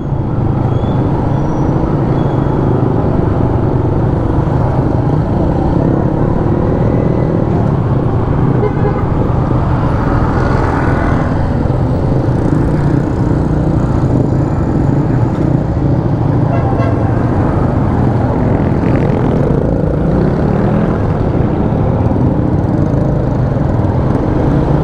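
Yamaha Sniper 150 motorcycle's single-cylinder engine running steadily at low, even revs while riding, heard over constant road and wind noise.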